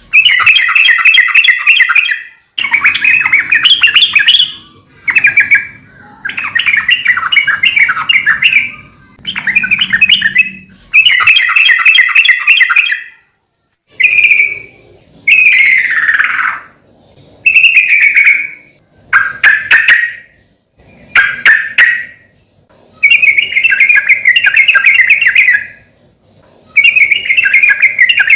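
Yellow-vented bulbul (trucukan) in lively full song: repeated bubbly, chattering phrases of a second or two each with short pauses between. About halfway through come a few quick falling whistled notes.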